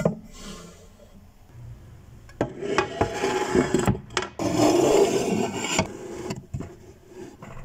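Scraping or rubbing noises in two stretches of about a second and a half each, with a few sharp knocks among them.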